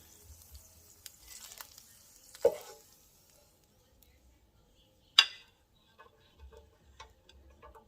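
Chicken drippings sizzling faintly in the skillet, fading away over the first few seconds, with a few sharp clicks and knocks of utensils and dishes, the loudest about five seconds in.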